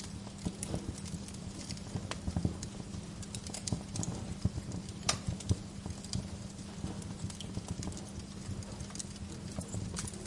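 Wood fire burning in a fireplace, logs crackling and popping at irregular moments over a steady low rumble of flames, with one louder pop about five seconds in.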